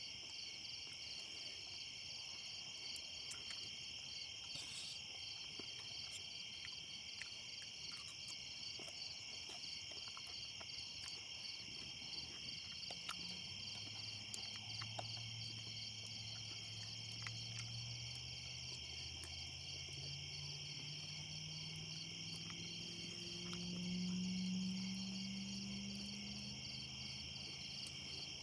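Insects chirping in a steady, fast-pulsing high trill. About halfway through, a low hum joins in, slowly rises in pitch, swells to its loudest near the end and fades.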